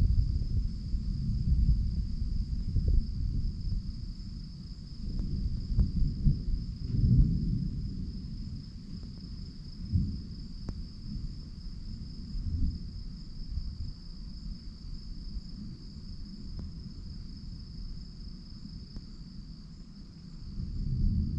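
Low, rolling thunder from a lightning storm rumbles on and off, swelling a few times, over a steady high chorus of night insects.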